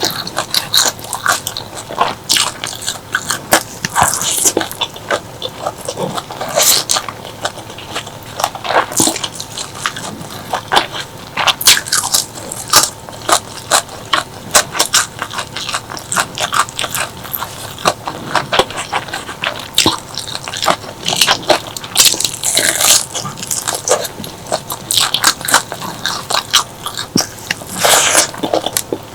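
Close-miked eating: crunchy bites and chewing of crisp food, with dense crackling clicks throughout and louder crunches every few seconds.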